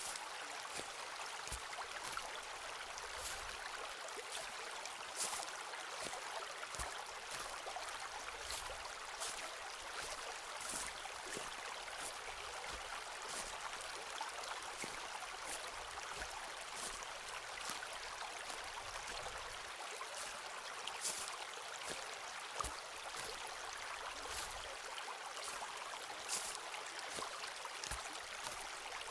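Footsteps crunching on a forest floor, short crisp steps at an uneven pace of roughly one or two a second, over a steady rush of flowing water.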